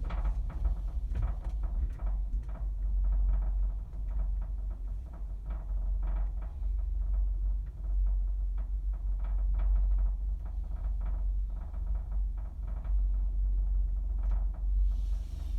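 Gondola cabin riding downhill in strong wind: a steady low rumble, with many small rattles and creaks from the cabin.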